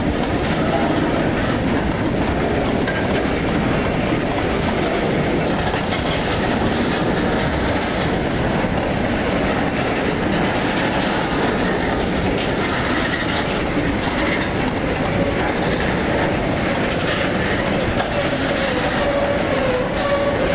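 Freight train of covered gondola cars rolling past, with a steady rumble and clatter of steel wheels on the rails. A faint wavering wheel squeal comes in during the last few seconds.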